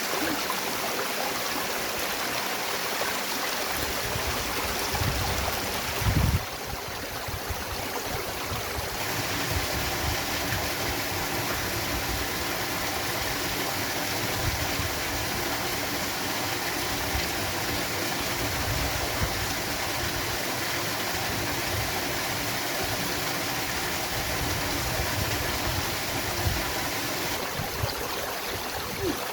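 Small waterfall rushing steadily, an even splashing hiss of falling water. A brief low thump about six seconds in.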